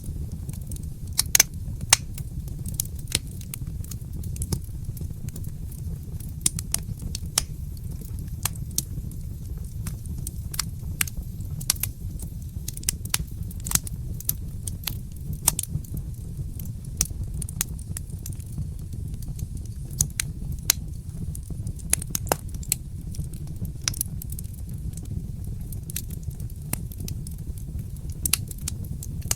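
Fire in a fireplace crackling, with sharp irregular pops over a steady low rumble.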